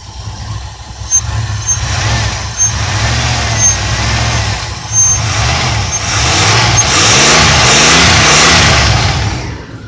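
Propane-fuelled 1970 Buick Sport Wagon engine running loudly and being revved, the revs rising and falling several times; it is loudest in the last few seconds, then settles back near the end.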